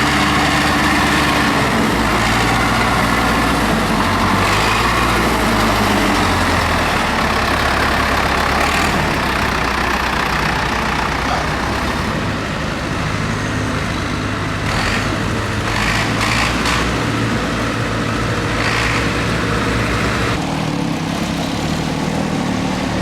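Tractor engines running, a steady diesel drone whose pitch shifts several times, with a few short sharp noises over the top around the middle.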